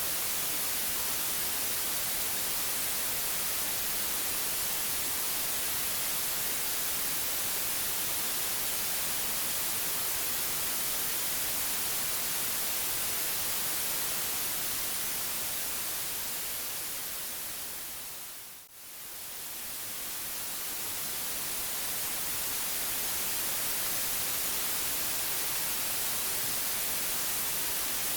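Steady white noise hiss, strongest in the highs. Around two-thirds of the way through it fades down over a few seconds to a brief low and then swells back to full level.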